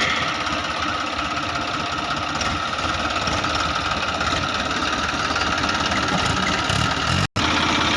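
Tractor diesel engine running steadily. The sound cuts out for an instant near the end.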